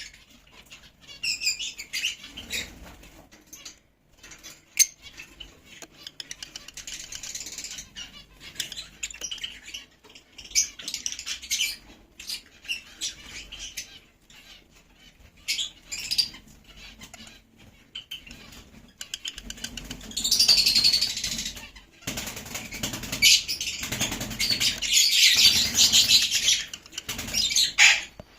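Lovebirds chirping and chattering, with wing flutters and scattered clicks. The chatter grows louder and denser in the last third.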